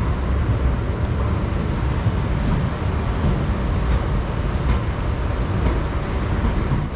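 Steady low rumble and hiss of railway station noise, with no single event standing out.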